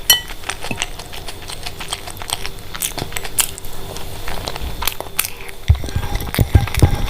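Close-miked eating: chewing with many small wet clicks and crackles of food in the mouth, and a few dull low thumps near the end.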